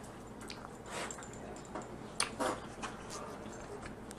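Close-up eating sounds: scattered sharp clicks and cracks, the loudest about two seconds in, among softer chewing and handling noises, as from crab shell being broken and eaten.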